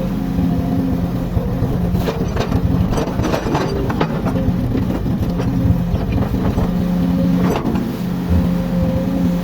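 Komatsu excavator's diesel engine running steadily under work, with a run of sharp knocks and clatters about two to four seconds in and another single knock near the end.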